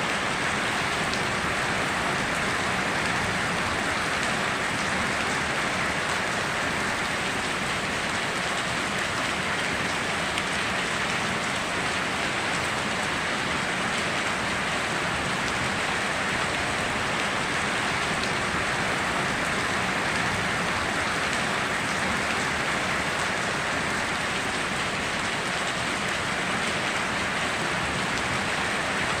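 Steady heavy rain falling on surfaces, an even hiss with no breaks.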